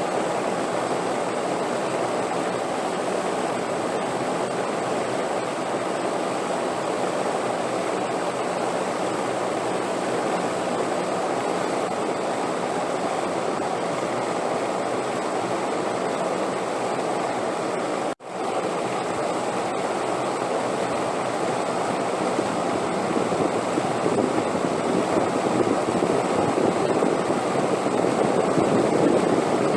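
Steady rushing wind noise for sleep, cutting out for a split second about 18 seconds in, then growing a little louder toward the end, with a faint thin high tone underneath.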